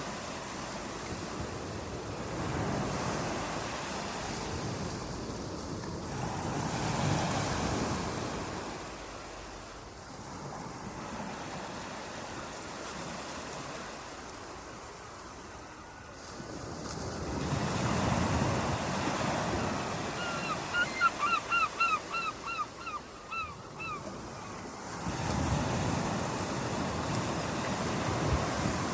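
Ocean waves washing in and ebbing in slow swells. About two-thirds of the way through, a bird gives a quick run of about a dozen short, repeated calls over the surf.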